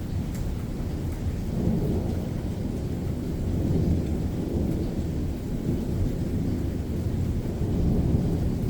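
Thunder rumbling on without a break, a deep rolling rumble that swells and eases, with rain falling faintly.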